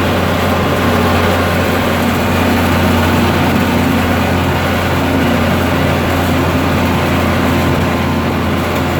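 Deutz-Fahr Agrotron 150.6 tractor's six-cylinder turbo-diesel engine running at a steady speed, a constant low drone.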